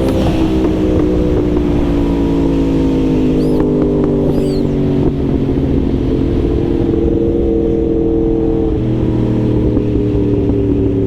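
Yamaha R1's inline-four engine running under way, its pitch easing slowly down for about the first five seconds and then holding steady, over a steady rush of wind noise.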